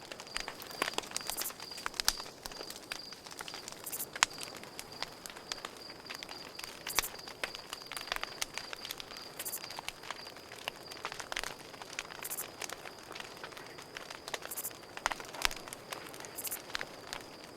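Campfire crackling with irregular sharp pops and snaps, over a cricket chirping steadily in fast pulses. Short high-pitched bursts recur about every two to three seconds.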